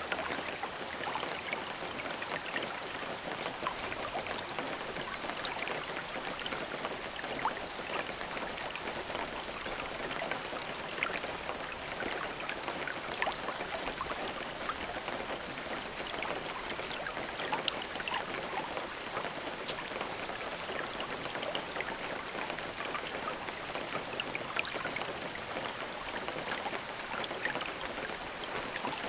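Steady rain falling, with many distinct drops pattering on a surface over an even hiss, no thunder.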